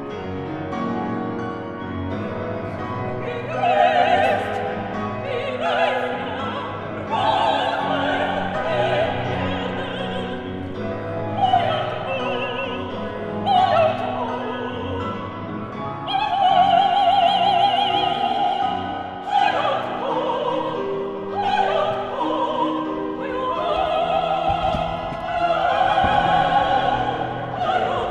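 Operatic soprano singing high held notes with wide vibrato, over a lower accompaniment that is most likely piano.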